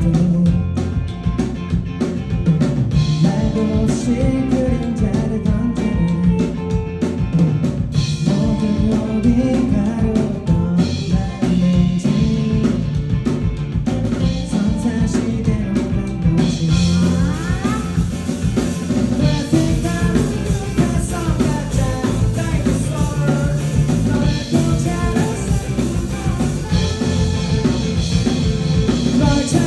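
Live rock band playing: drum kit, guitar and bass with a singer, a full band sound that grows denser about halfway through.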